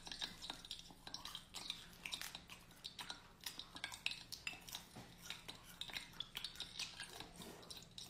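Crisp crunching of a deep-fried centipede being bitten and chewed: a dense, irregular run of small sharp crackles.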